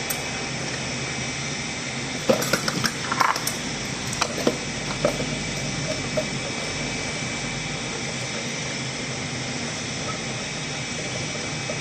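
Steady mechanical hum with a cluster of sharp clicks and knocks between about two and six seconds in, like tools being handled.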